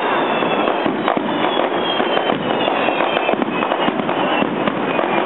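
Fireworks going off in a dense, continuous barrage of crackling and popping, with thin high tones gliding slightly downward through it.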